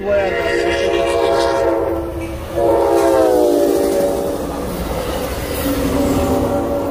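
Amtrak Cascades passenger train passing close by, its horn sounding over the steady rumble and clatter of wheels on rail. A second horn blast comes about two and a half seconds in, and its pitch drops as the train goes by.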